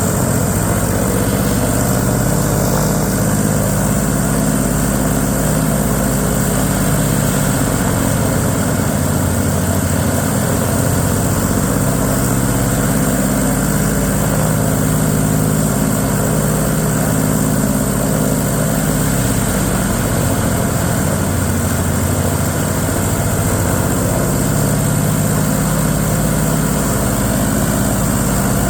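Pratt & Whitney R-2800 18-cylinder radial engine of an F4U Corsair running steadily at low power, its propeller turning, with no change in speed.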